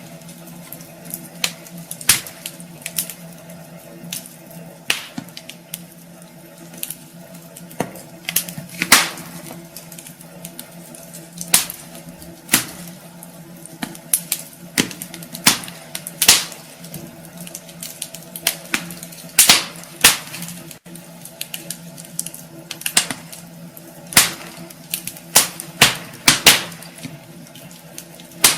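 Wood fire burning in a fireplace, crackling and popping with irregular sharp snaps, a few of them loud, over a steady low background.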